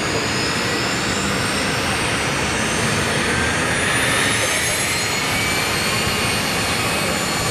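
The four Lycoming ALF 502 turbofans of a BAe 146-300 airliner running close by: a steady jet rush with several high whining tones, one of which slides upward in pitch a few seconds in.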